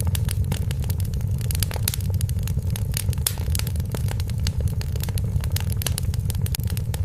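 Wood fire in a fireplace crackling: many sharp snaps and pops, irregularly spaced, over a steady low rumble.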